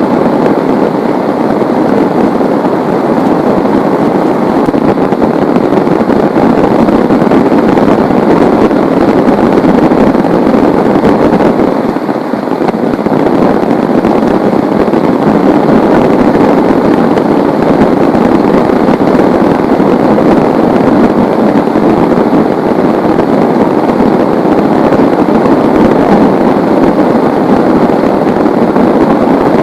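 Heavy rain falling, a loud steady rush with a brief lull about twelve seconds in.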